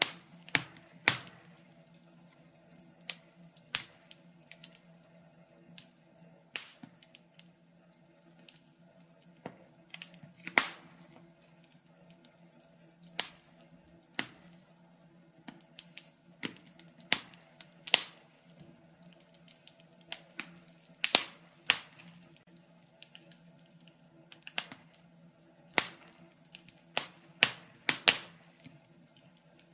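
Wood fire in a fireplace crackling, with irregular sharp pops and snaps, sometimes singly and sometimes in quick clusters, a few of them much louder than the rest. A faint low steady hum lies underneath.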